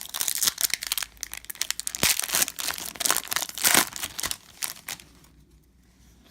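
Crinkly plastic wrapping rustling and crackling as trading-card packaging is handled. The sound is dense and irregular for about five seconds, then dies away.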